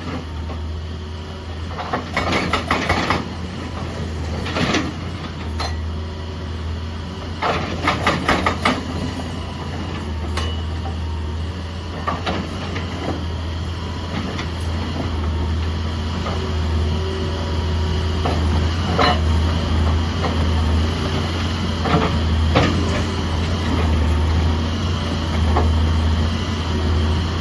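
Excavator diesel engine running steadily under load, with two short bursts of rapid hammering from a hydraulic breaker, about two seconds in and again around eight seconds, and scattered single knocks in between.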